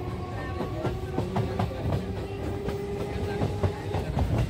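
Suburban electric local train running, with a low rumble and irregular clicking and rattling of the wheels over rail joints. A steady whine rises slightly in pitch and stops near the end.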